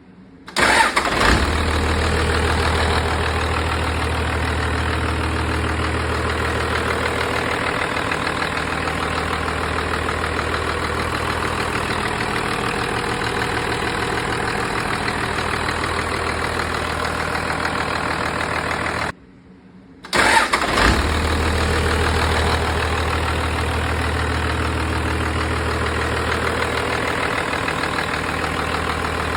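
1991 Dodge Ram's 5.9-litre Cummins inline-six turbo diesel starting and settling into a steady idle. It cuts off abruptly a little past halfway, starts again about a second later, and idles steadily to the end.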